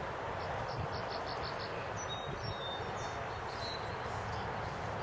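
Faint bird calls over a steady outdoor hiss and low rumble: a quick run of about six short high chirps, then a few thin high whistles a second or two later.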